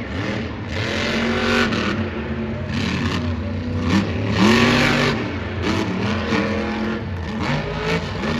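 Monster truck's supercharged, alcohol-fuelled engine revving hard, the revs climbing and dropping back again and again as it is worked.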